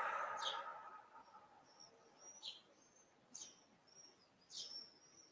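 A slow breath out fades over the first second. After that a small bird chirps faintly every second or so, with short high notes that drop in pitch and brief whistles between them.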